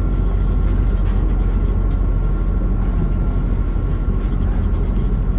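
Cabin noise of a MAZ-216 city bus under way between stops: a steady low engine and road rumble with a faint steady whine above it.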